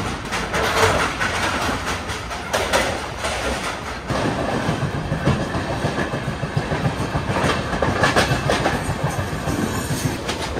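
Express passenger train running at speed, heard from an open coach door: the wheels clatter over the rail joints through a steady rush of noise. The clatter grows heavier and denser about four seconds in.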